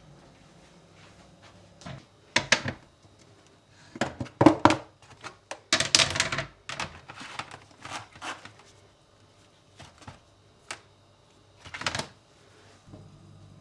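Irregular knocks, clicks and short clatters of household objects being handled. The loudest clusters come about a third and halfway through, with another near the end.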